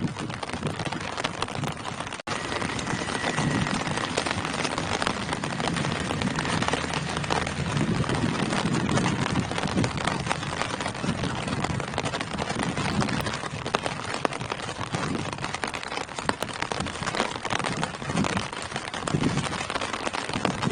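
Steady rain falling on tree leaves, a dense patter of countless drops. The sound cuts out for an instant about two seconds in.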